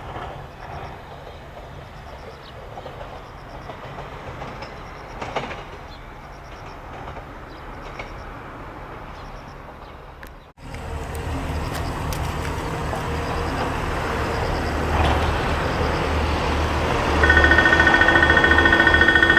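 Train running on the line with a steady rumble. After a short break the rumble comes back louder and builds. About two seconds before the end, a rapidly pulsing electronic warning signal with several steady tones starts.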